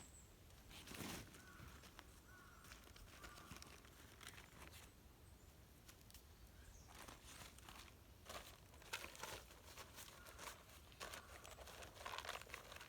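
Quiet, scattered rustling and crinkling with small clicks, like things being handled.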